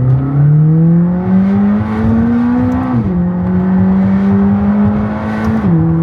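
McLaren 600LT's twin-turbo V8 accelerating through the gears. Its pitch rises steadily, drops with an upshift about three seconds in, climbs gently again, and drops with a second upshift near the end.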